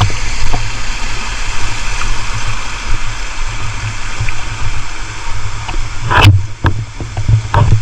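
Rushing water of a waterfall, a steady hiss under a low rumble on the microphone. The hiss thins about six seconds in, and a few sharp knocks stand out near the end.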